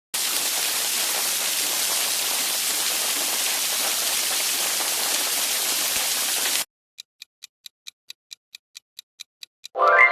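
Steady rain falling, which cuts off abruptly about six and a half seconds in. Then come quick, evenly spaced ticks, about five a second, and a short sound effect rising in pitch right at the end.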